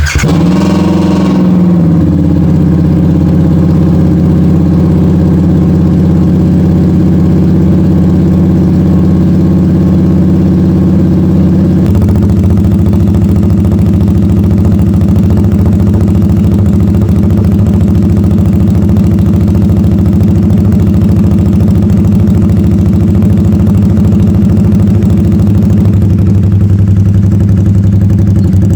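2024 Harley-Davidson Nightster's 975 cc Revolution Max V-twin on a cold start after sitting a week. It flares up just after catching, then settles into a steady idle, its tone shifting about twelve seconds in. The exhaust carries an aftermarket exhaust tip, which makes it deeper and louder.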